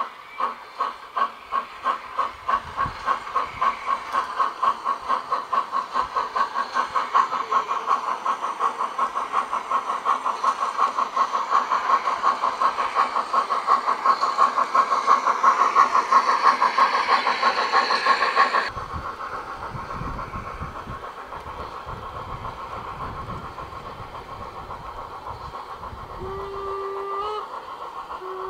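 Model garden-railway steam locomotive chuffing as it pulls away, the beats steadily speeding up. About two-thirds through, the sound cuts to a quieter running noise, and near the end the locomotive gives a short two-tone whistle.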